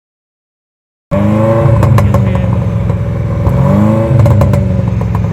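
A car engine being revved repeatedly, its pitch rising and falling with each blip of the throttle, cutting in suddenly about a second in.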